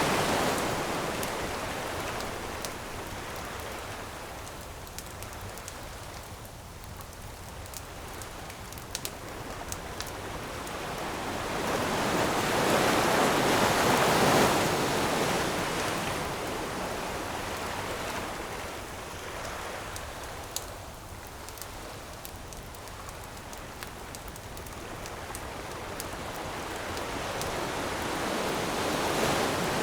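Ocean waves washing in slow swells, one breaking about halfway through and another building near the end. A campfire crackles throughout with small ticks and a few sharper pops.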